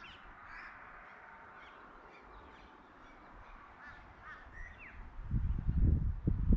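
Birds calling: a crow cawing and small birds giving short high chirps. From about five seconds in, a loud low buffeting rumble on the microphone takes over.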